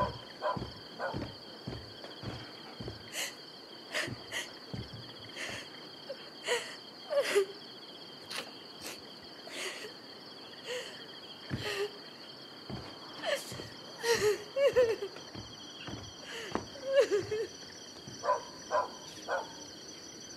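Crickets or other night insects chirping steadily, with scattered sharp clicks and knocks and a few short squeaky sounds.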